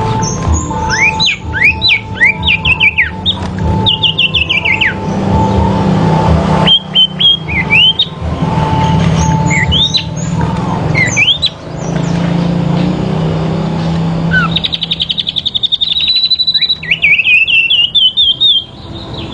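Sirpu songbirds singing against each other in a duel: quick rising chirps and short whistled phrases tumble over one another, with a long fast trill near the end. A steady low hum runs underneath.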